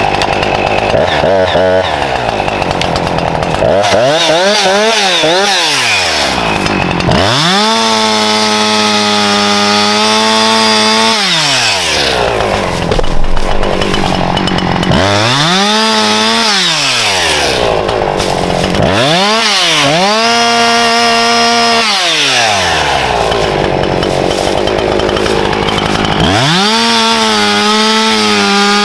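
Husqvarna two-stroke chainsaw with its chain freshly re-tensioned, cutting firewood. The throttle is opened and released again and again, so the engine climbs to a high steady whine and drops back about five times, with rougher stretches in between.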